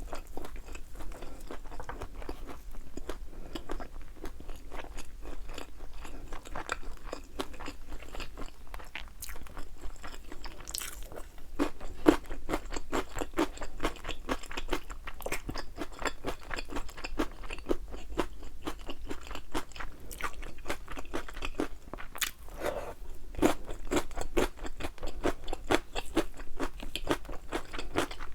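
Close-up crunching and chewing of crispy, thin-battered fried chicken wings, a rapid run of crackling crunches.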